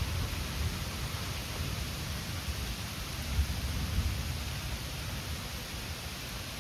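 Steady rain hissing during a thunderstorm, with a low, fluttering rumble underneath that is strongest in the first second.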